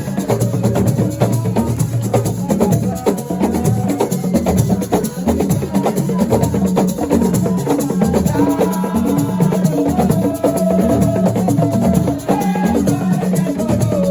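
Lively assiko-style percussion music: dense, fast drumming with shakers and sharp wooden knocks. A melody line comes in over the drums about halfway through.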